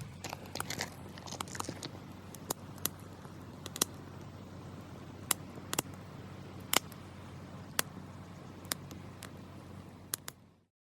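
Wood campfire crackling, with sharp irregular pops over a low steady background; the sound cuts off abruptly near the end.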